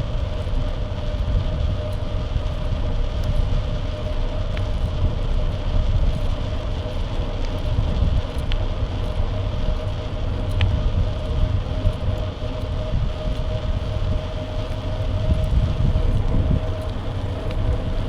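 Wind buffeting the microphone of a bike-mounted action camera while riding, a heavy rumble, with a steady hum from the moving bike and a few faint ticks.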